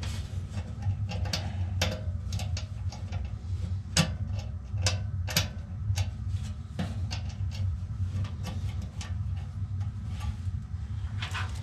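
Irregular metallic clicks and ticks of a wrench working on a blower motor's mount bracket, over a steady low hum. The bracket is stripped and loose.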